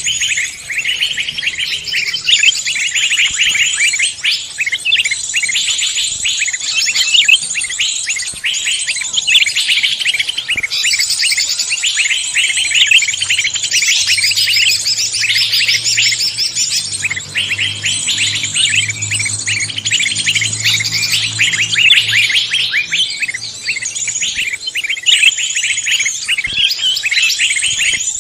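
Dense mixed chorus of forest songbirds, many birds chirping and twittering rapidly over one another without a break. A low hum sits underneath from about halfway through for several seconds.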